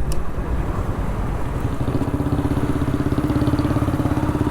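Motorcycle fitted with a modified silencer, running at low road speed. From about two seconds in, the exhaust settles into a steady, even putter.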